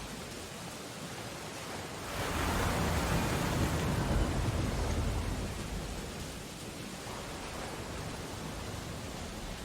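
Steady rain on window glass over a stormy ocean, with one large wave surging about two seconds in and washing back out over the next few seconds.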